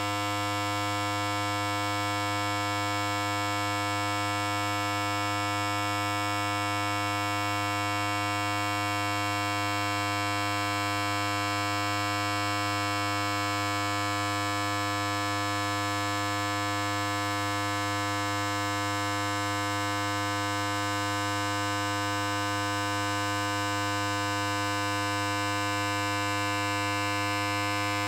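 Electric hair clipper running continuously: a steady, unchanging buzz with a strong low hum.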